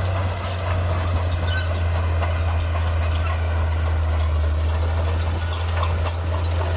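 Heavy diesel engine of a Shantui bulldozer running steadily under load, with scattered clicks and clanks over the low drone.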